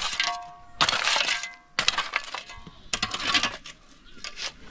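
Metal tools scraping and striking gravel: four crunching strokes about a second apart, the first two followed by a short metallic ring.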